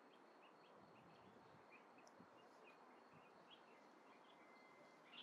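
Near silence: faint outdoor air with scattered small bird chirps.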